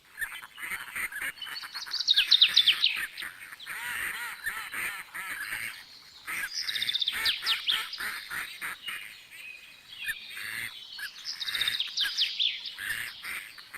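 Many birds chirping and calling together, with a rapid falling trill that comes three times, about every five seconds.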